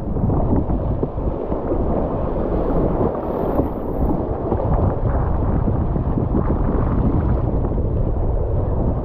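Rushing whitewater around a kayak, a steady loud churning noise with wind buffeting the microphone.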